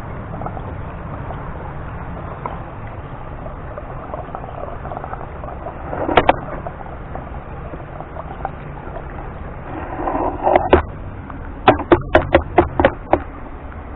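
Gasoline pouring from a gas can into a small engine's fuel tank, a steady splashing rush. Near the end come a quick run of six or so sharp knocks or clicks.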